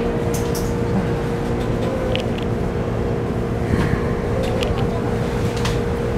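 Steady electrical hum and rumble inside a Keikyu New 1000 series commuter train car, with a few light clicks and knocks scattered through.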